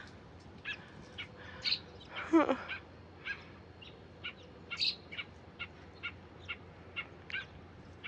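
A bird calling with short, sharp chirps, about two a second: a parent bird calling to its fallen fledgling.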